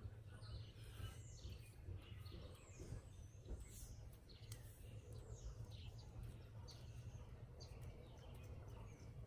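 Faint bird chirps, many short falling calls scattered throughout, over a low steady hum.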